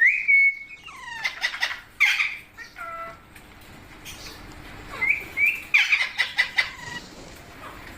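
Pet green parrots making short, shrill calls: a sharp call at the start, then a run of quick falling calls, a lull, and another flurry of calls near the middle.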